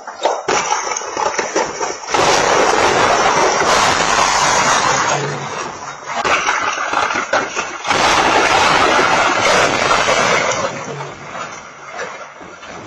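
Strong tornado wind blasting against the microphone, in loud surges that start and stop abruptly.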